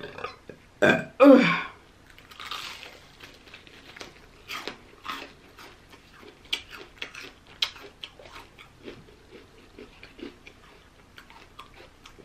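Close-up eating sounds of crispy fried chicken: bites and chewing make many short crunches and wet smacks. About a second in there are two short, loud vocal sounds.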